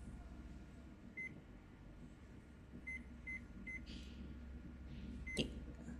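Smart wall thermostat beeping as its buttons are pressed: five short, high electronic beeps, three of them in quick succession near the middle, and a click near the end.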